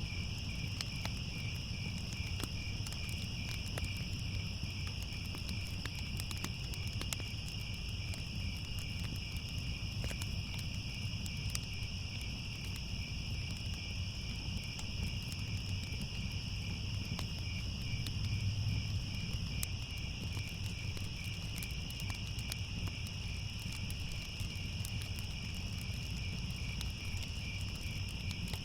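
Crickets chirping steadily in a dense, fast-pulsing high trill, over a low rumble with scattered faint crackles from a fire.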